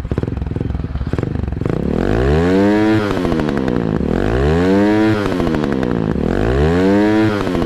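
Motorcycle engine idling, then revved three times, each blip climbing in pitch and falling back to idle, through a stock muffler modified with a 51 mm outlet on a big elbow pipe.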